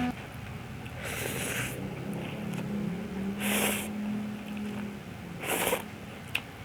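Three short, breathy mouth sounds about two seconds apart from eating hot noodle soup, over soft background music.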